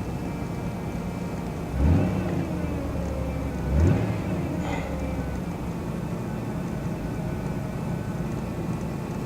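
2003 Ford Taurus SE engine running cold just after a cold start, revved briefly twice, about two and four seconds in, then settling back to a steady idle. The owner says it has been running shaky lately and wonders whether it needs a tune-up.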